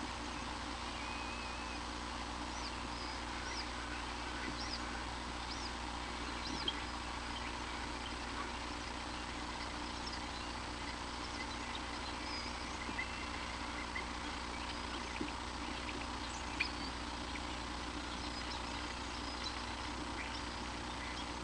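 Faint, short, high bird chirps scattered irregularly throughout, over a steady hum.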